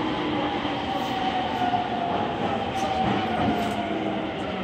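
Running noise of a JR East E231 series 800 commuter train heard from inside the car as it slows for the station, with a whine that falls slowly in pitch.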